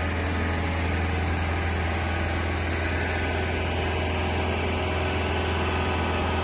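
Heavy equipment engine idling steadily, a deep constant hum that holds the same speed throughout.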